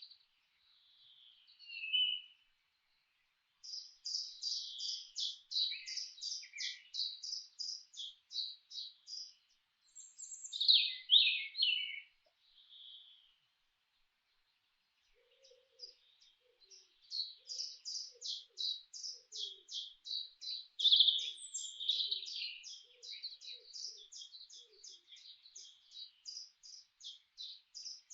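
Songbirds singing in a forest: fast runs of high chirps, with a few separate calls in between and quiet gaps. One long run comes about four seconds in and another in the second half.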